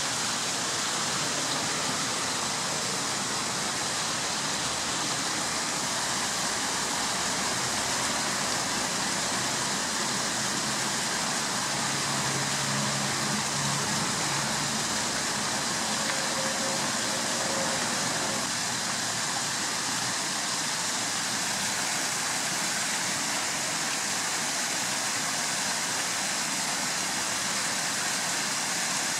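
Steady, even outdoor rushing noise with no distinct events. A faint low hum comes in around the middle and fades again.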